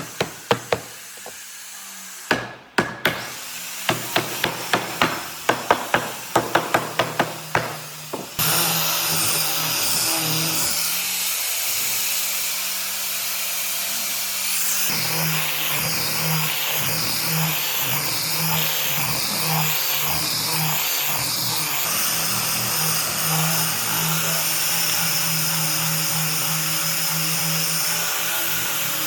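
Repeated hammer blows on wood, roughly two a second. About eight seconds in, an electric power tool starts and runs steadily to the end, its high whine wavering in the middle stretch.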